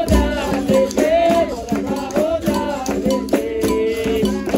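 Capoeira roda music: a voice singing a wavering melody over berimbau, caxixi rattle and hand percussion, with regular sharp strikes keeping the rhythm.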